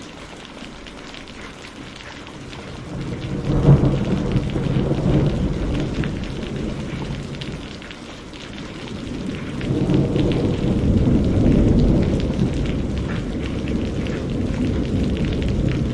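Steady rain with two rolls of thunder. The first builds about three seconds in to a sharp crack and rumbles away; the second swells a few seconds later and is still rolling at the end.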